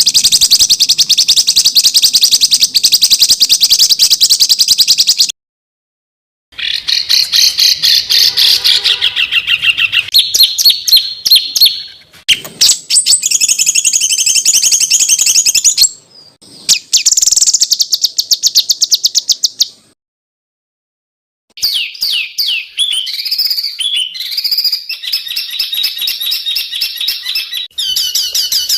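Recorded songbird calls spliced together: fast, dense strings of high, harsh chirping notes, in several separate clips. The clips stop abruptly with a short silent gap about five seconds in and another about two-thirds of the way through.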